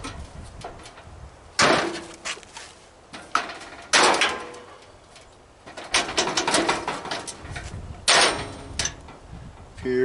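Metal barbecue-grill parts banging and clanking while the grill is being dismantled for scrap: single loud bangs, each with a short metallic ring, about a second and a half, four and eight seconds in, and a quick run of rattling clanks around six seconds in.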